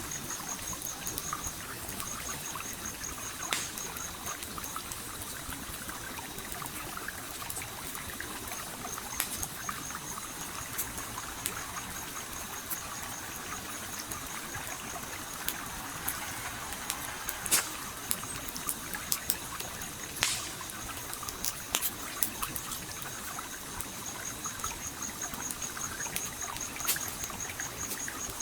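A stream flows steadily while a campfire crackles over it, with scattered sharp pops and a few louder ones past the middle. A high, rapidly pulsing trill comes and goes in the background.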